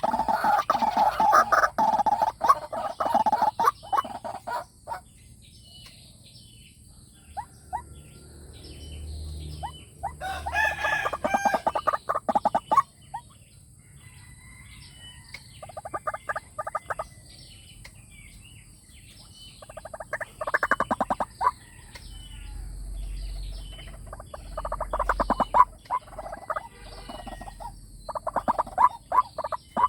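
White-breasted waterhen decoy call: bouts of rapid, repeated croaking notes, each a few seconds long, returning every few seconds. Faint, thin chirps sound in the gaps.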